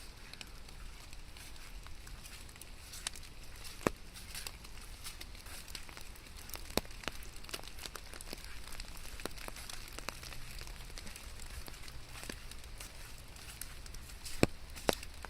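Rain falling steadily, with irregular close drops ticking and pattering and a few sharper, louder drips standing out about four and seven seconds in and near the end.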